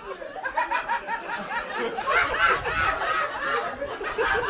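Comedy club audience laughing, several distinct laughs overlapping, with rapid repeated high-pitched cackles.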